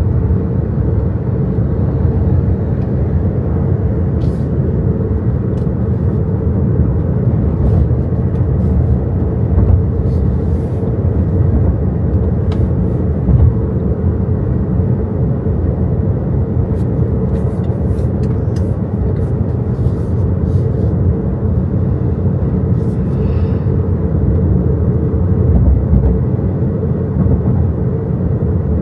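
Steady tyre and road rumble of an XPENG G6 electric SUV driving on the road, heard from the driver's seat, with no engine note, only a faint steady hum, and scattered light ticks.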